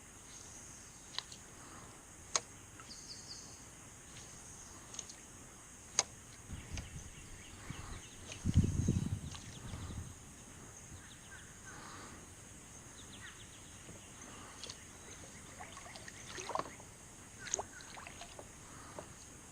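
Quiet kayak and water sounds on a creek: a few small knocks and a low rumbling bump about halfway through, over a steady high insect buzz.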